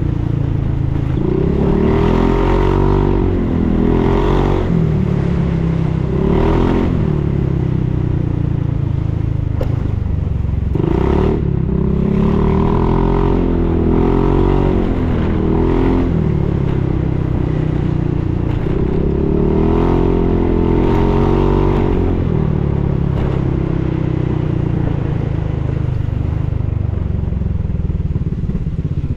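Honda Forza 350 scooter's single-cylinder four-stroke engine running through a Yoshimura full exhaust, revved up and back down several times and dropping back to a steady idle in between.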